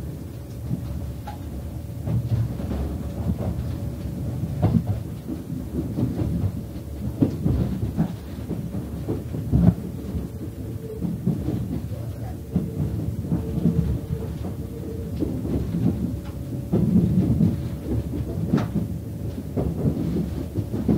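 Cabin noise inside a JR 381 series electric limited-express train under way: a continuous low rumble with irregular knocks and bumps from the running gear, and a faint steady hum underneath.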